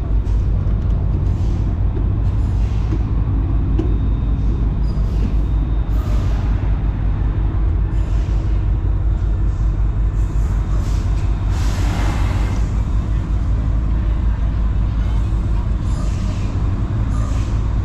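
Steady low rumble of a large diesel engine running, with a brief hiss about twelve seconds in.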